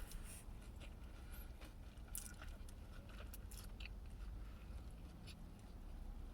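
A person chewing a mouthful of fried chicken sandwich, with small wet crunches and lip smacks over a steady low hum inside a car.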